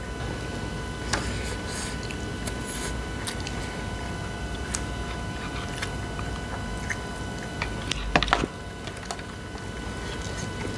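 People chewing and eating, with soft squishy mouth sounds and scattered small clicks over a steady low room hum. A brief louder sound comes about eight seconds in.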